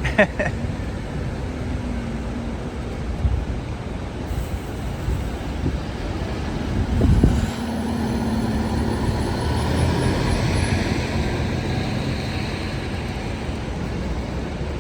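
City street traffic: a steady wash of vehicles running past, with a louder vehicle passing about halfway through.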